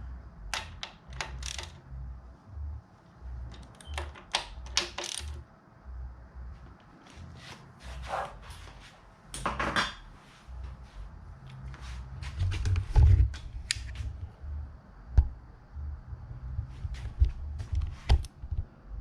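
Irregular metallic clicks and clinks of hand tools being handled and set down against metal, with low knocks and bumps in between and a louder knock about 13 seconds in. No engine is running.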